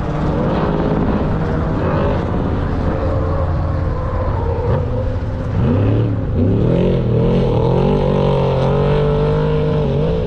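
Off-road racing vehicle's engine running hard, its pitch dropping about five seconds in and then climbing back and holding high as it comes off the throttle and accelerates again.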